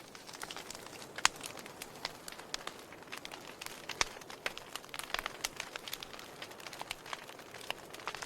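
Wood fire burning in a fireplace: a soft steady hiss with irregular sharp crackles and pops, two louder pops about a second in and about four seconds in.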